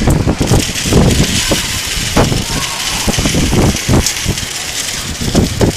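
Heavy rain falling with a steady hiss, broken by irregular low rumbling surges every second or so.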